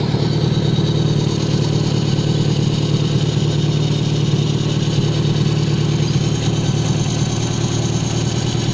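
Carbureted four-cylinder engine on a test stand idling steadily, as for an ignition-timing check with a timing light.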